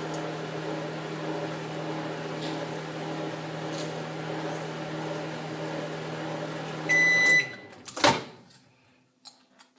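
Microwave oven running with a steady hum, then beeping as the cycle ends about seven seconds in. A loud clunk follows about a second later, the door being latched open.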